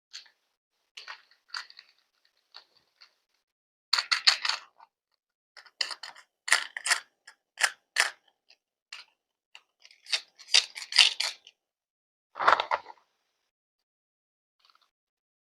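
A series of short, crisp snips, clicks and rustles at irregular intervals, some in quick clusters, with silent gaps between them: small objects being handled close to the microphone.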